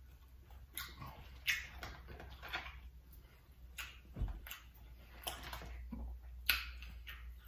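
Eating sounds: wet chewing and mouth smacks in irregular sharp clicks, the loudest near the end.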